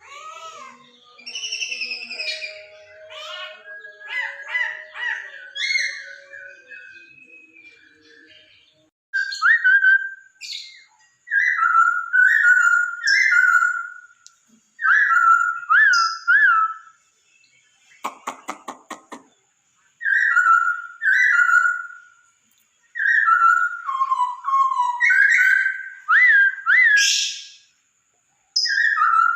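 Poksay Hongkong laughingthrush singing loud, clear whistled phrases, repeated in short bursts with quick upward-looping notes, after a more varied warbling opening. About 18 seconds in there is a brief dry, rapid rattling chatter.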